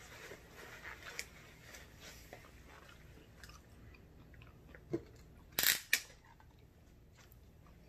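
Faint chewing and small mouth clicks, then two short sharp noises about five and a half seconds in as a plastic tumbler is lifted and drunk from.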